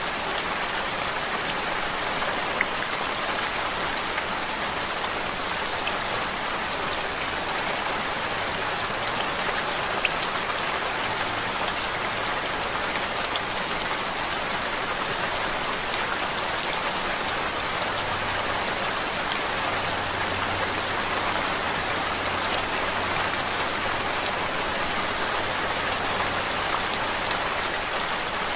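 Steady rain falling on a surface: an even hiss with many small scattered drop ticks, played as a continuous white-noise ambience.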